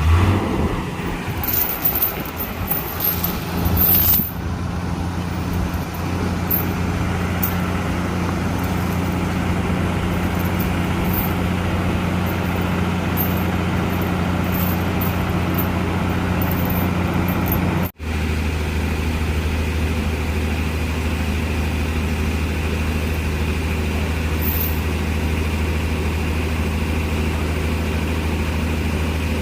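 Heavy truck diesel engine running steadily at a low, even pitch, a little louder and more uneven in the first few seconds, with a brief break about eighteen seconds in.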